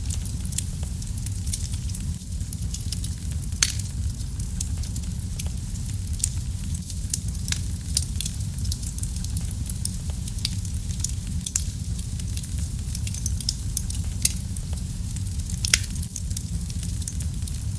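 Wood fire crackling in a fireplace: a steady low rumble of burning with frequent sharp crackles and a few louder pops scattered through.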